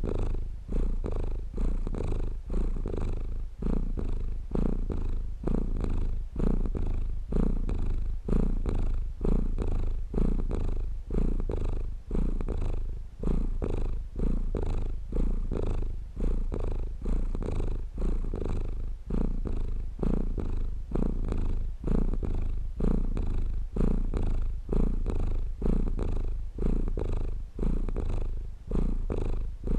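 Domestic cat purring steadily, the low rumbling purr swelling and dipping about once a second as the cat breathes in and out.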